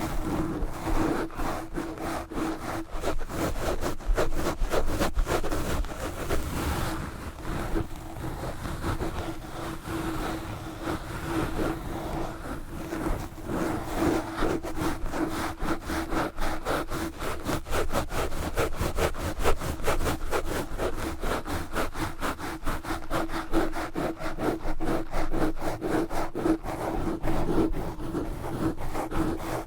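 Knitted wool gloves scratching and rubbing fast and hard over a microphone, giving a continuous stream of rapid, coarse scrapes, with a steady low hum underneath.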